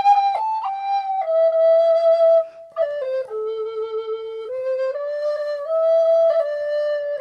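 Solo recorder playing a slow melody unaccompanied: one long held note after another, stepping down in pitch and then climbing back up, with a short break about two and a half seconds in.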